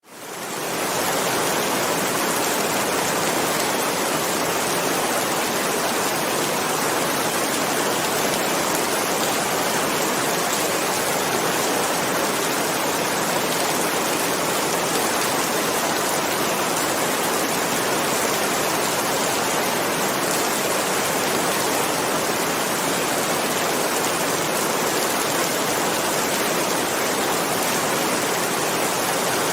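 Heavy rain falling steadily, an even hiss that fades in over the first second and then holds level, with no thunder.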